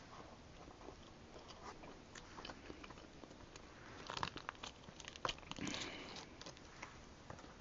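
A person biting into and chewing a double bacon jalapeño cheeseburger close to the microphone: soft, wet chewing and crunching with faint clicks. The chewing grows louder and busier about four to six seconds in.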